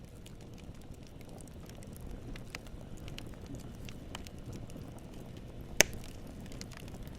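Campfire burning with a low steady rumble and scattered crackles of wood, and one loud sharp pop near the end.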